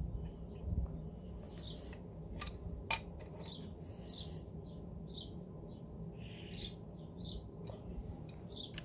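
Small birds chirping on and off, with a couple of sharp clicks about two and a half and three seconds in.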